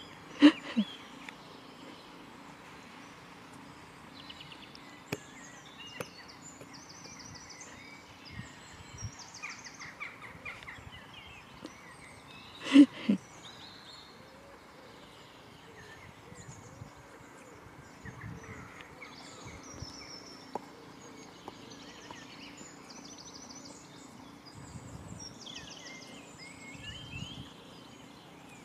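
Outdoor field ambience with small birds chirping and singing on and off throughout. Two brief loud sounds stand out, one about half a second in and one about 13 seconds in.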